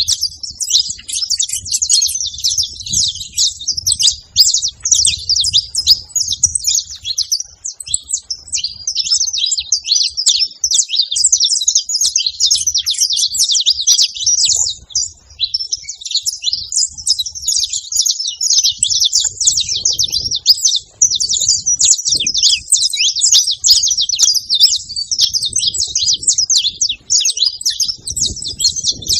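Saffron finch (canário-da-terra) singing and chirping in a rapid, unbroken stream of high, sharp notes.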